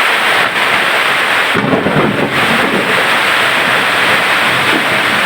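Heavy rain pouring down steadily, with a low rumble joining in about one and a half seconds in.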